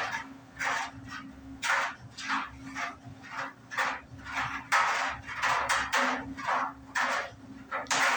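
Small portable clothes dryer running with a steady motor hum while a single hoodie tumbles in the drum, swishing and knocking about once or twice a second. The unit runs but blows no air out, by the owner's account.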